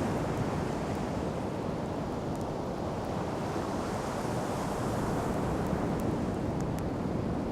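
Sea surf washing onto a sand beach, a steady rush that swells gently about midway, with wind buffeting the microphone. A few faint crackles from the wood campfire come near the end.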